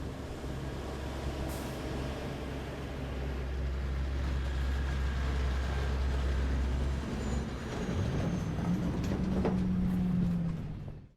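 Heavy diesel engine running steadily at a low idle, then rising in pitch about eight seconds in and holding the higher speed before cutting off.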